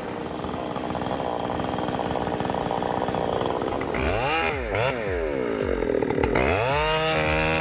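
Chainsaw running steadily at high speed, then from about halfway through revving up and falling back several times in a row.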